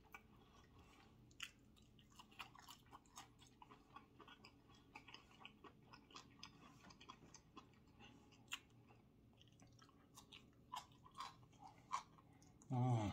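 Quiet, close-up chewing and mouth sounds of a man eating, with many small scattered clicks and smacks. A brief vocal sound comes near the end.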